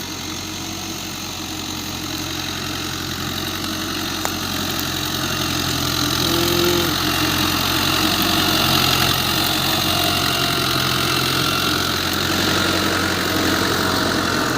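Diesel engine of a 1999 Fiat 640 tractor running steadily under load as it pulls a plough through the field, growing steadily louder as it comes closer.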